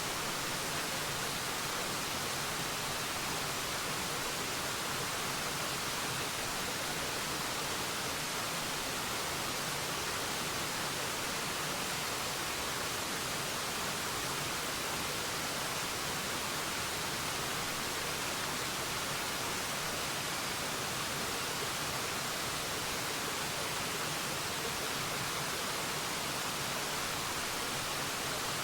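Forest waterfall: a steady, unchanging rush of falling water, heard mostly as an even hiss.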